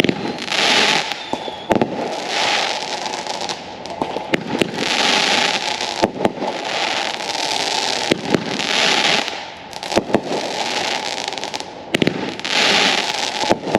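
Consumer fireworks going off in a steady sequence: a hissing rush about every two seconds, with sharp pops and cracks in between.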